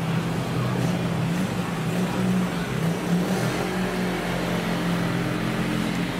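Steady low hum of vehicle engines in street traffic, with no sharp events.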